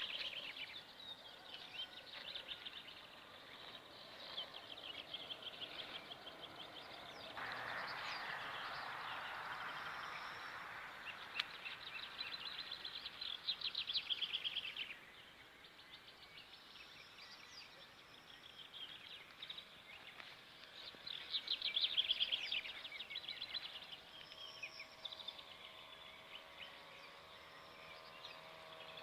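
Small songbirds chirping and trilling in quick runs of high notes. A steady rushing noise lies under them for several seconds in the first half.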